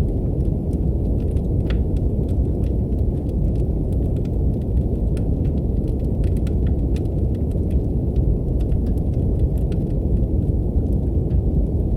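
Brown noise, a steady deep hiss, mixed with a wood fire crackling in a fireplace: scattered sharp crackles and pops, several a second, at irregular intervals.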